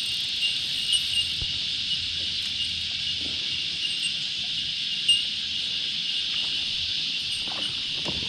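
Chorus of cicadas droning steadily, a constant high-pitched buzz, with a few faint clicks over it.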